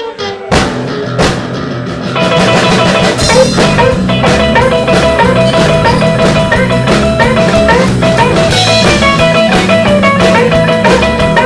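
Live rock band playing an instrumental passage on electric guitar, bass and drum kit; it starts sparse with a few hits and the full band comes in louder about two seconds in, with a steady beat.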